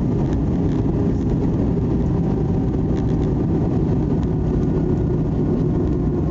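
Steady low rumble of engines and rushing air inside the cabin of an Airbus A320 airliner in flight, with faint steady whining tones above it.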